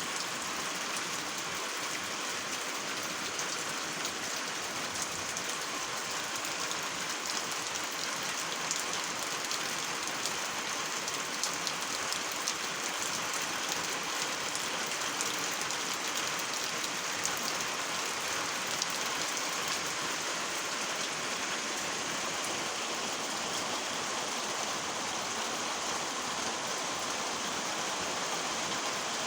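Steady rain falling: an even hiss at a constant level, with many small drop ticks.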